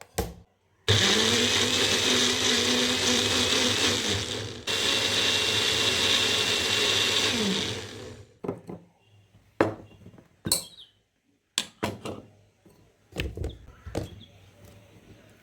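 Electric kitchen blender running in two runs of about four and three seconds with a brief stop between, its motor winding down at the end. A few scattered knocks and clicks follow.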